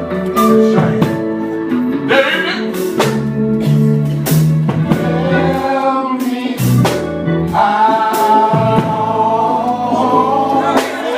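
Live gospel group performing a slow song: a singer's voice over guitar, bass and drums, with sustained, gliding sung notes.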